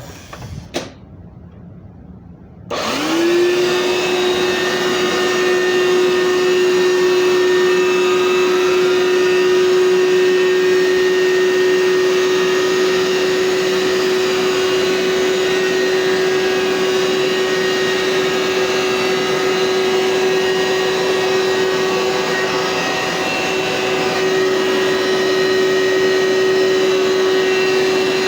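A short knock, then a Hoover SteamVac carpet cleaner is switched on about three seconds in. Its motor spins up with a quick rising whine and then runs steadily at a loud, even pitch.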